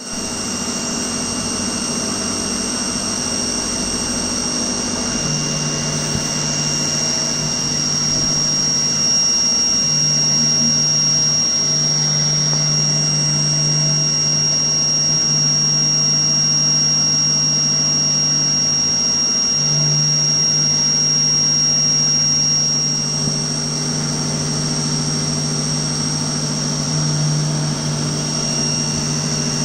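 CNC lathe with live tooling machining a part. A steady high-pitched whine runs throughout, and a lower hum starts about five seconds in, dropping out briefly several times.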